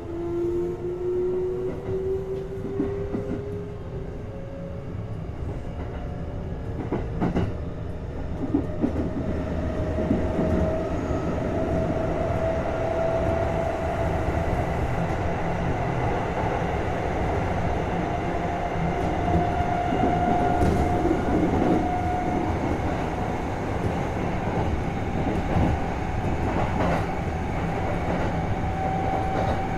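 Hitachi GTO VVVF inverter and traction motors of a Kintetsu 1220 series electric railcar, heard aboard the motor car, whining in tones that climb slowly as the train gathers speed. Underneath is the rumble of wheels on track, with a few sharp rail-joint clicks.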